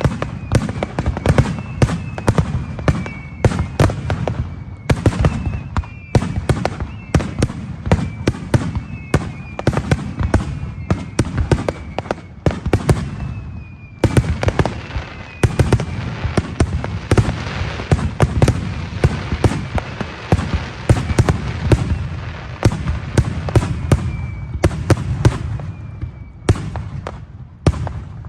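Aerial fireworks display: rapid, overlapping bangs and bursts, with short whistles sliding down in pitch again and again, and a thicker stretch of continuous bursting and crackle in the middle.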